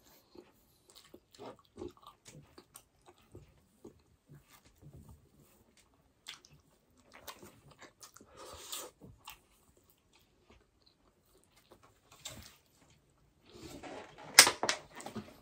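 Close-miked chewing of soft rice and gravy-soaked burger steak, with wet lip smacks and small mouth clicks coming in scattered bursts. A louder burst with a sharp click comes near the end.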